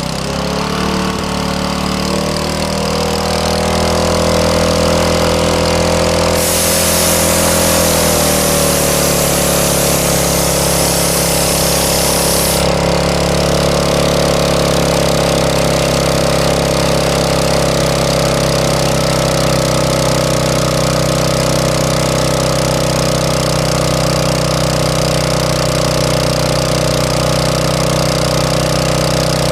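Iwata CS-265P air compressor running steadily, its pitch settling in the first few seconds after start-up and dipping slightly about eight seconds in. A loud hiss of air sounds for about six seconds starting roughly six seconds in.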